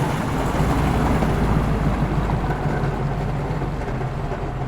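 A car's engine rumbling at low revs as it rolls slowly past, easing off slightly in loudness.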